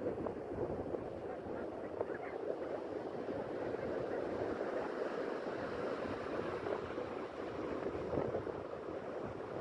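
Steady wash of a calm sea on the shore, with wind rumbling on the microphone.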